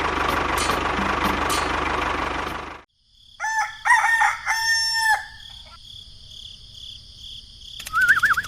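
A small engine running steadily, cut off abruptly about three seconds in. After a moment's silence a rooster crows once, and near the end there is a short warbling whistle.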